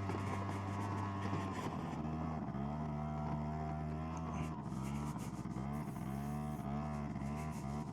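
Two-stroke 50 cc engine of a SYM Jet2 50 scooter idling, left running to cool off after the ride. The idle is steady at first, then from about two seconds in its pitch rises and falls a little, over and over.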